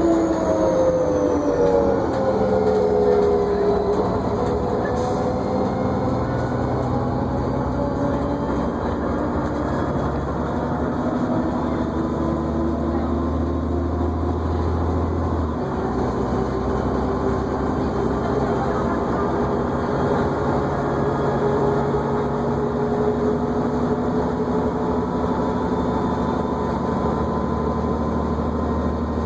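New Flyer D40LFR diesel transit bus running, heard from inside the cabin: a steady low drone with a whine whose pitch falls over the first few seconds, then holds and slowly climbs again.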